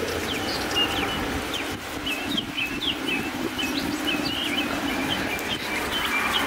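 Small birds chirping in many short, high notes, over a steady rush of background noise.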